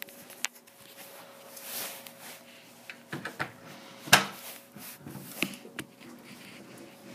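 A handful of sharp knocks and clicks, the loudest about four seconds in, over a faint steady hum.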